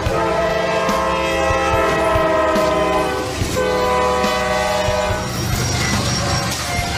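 Locomotive air horn sounding several long blasts in a row, each a chord of stacked tones with short breaks between them, over the low rumble and clacking of the train on the rails.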